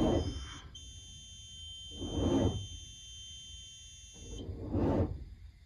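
A steady high-pitched electronic alarm tone that cuts off suddenly about four seconds in, with loud rushing swells at the start, in the middle and near the end.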